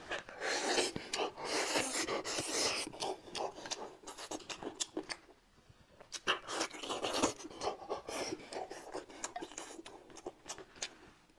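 Close-miked chewing and lip-smacking on stewed pork rib meat, in two long stretches with a short lull about halfway.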